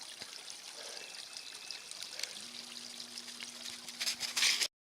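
Faint trickling water with a few light clicks. A short, louder burst of noise comes near the end, then the sound cuts off abruptly.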